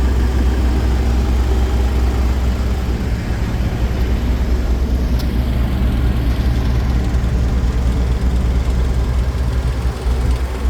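Engine on a Mitsubishi reefer truck idling steadily, an even low drone with no change in speed.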